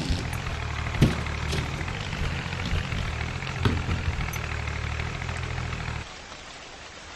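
Mahindra tractor's diesel engine running steadily with a low hum and a few sharp knocks. About six seconds in the sound drops to a much lower level.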